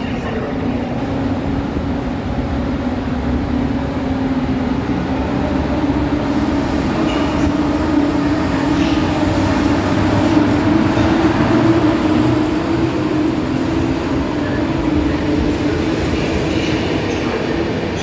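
PKP class EP07 electric locomotive hauling Intercity coaches past at close range. A steady hum with a tone that rises slightly over a rolling rumble, loudest as the locomotive goes by about ten seconds in, then the coaches' wheels rolling past with a few clicks.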